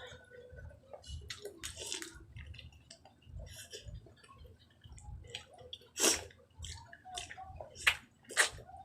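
Close-miked eating sounds: wet chewing and mouth smacks, with irregular short clicks and a few sharper ones about six and eight seconds in.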